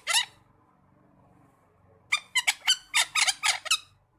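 Parakeet chirping: quick, shrill, high-pitched chirps, a short burst right at the start and a longer run of about ten chirps in the second half.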